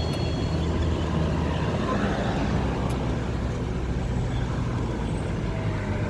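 Car engine and road noise: a steady low hum with an even rush of tyre and traffic noise.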